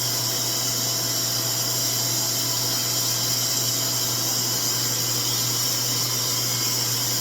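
RevAir reverse-air hair dryer running steadily, its suction motor pulling a section of hair into the tube: a steady low hum under a strong hiss of rushing air.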